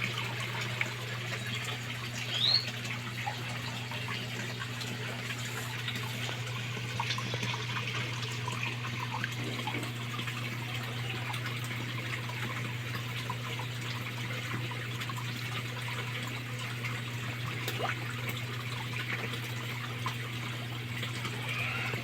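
Water trickling and splashing steadily in a koi pond over a steady low hum, with a single short high chirp about two and a half seconds in.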